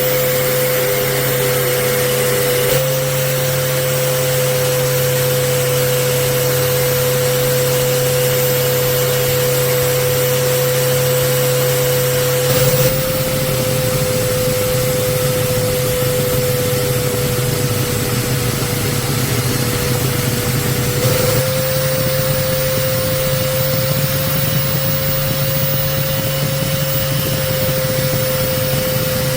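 An electric power tool's motor running steadily at constant speed, a steady whine with a low hum and a hiss over it. The sound changes abruptly three times, about 3, 13 and 21 seconds in.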